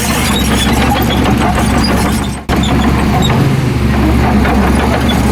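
Heavy diesel earthmoving machinery running steadily, with a low, even engine hum and a very short break about halfway through.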